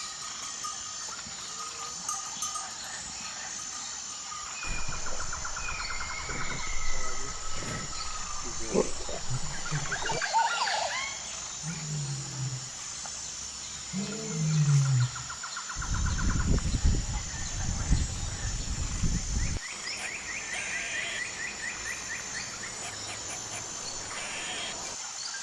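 A string of animal calls from several clips cut together, changing abruptly every few seconds. Among them are low, falling roaring calls.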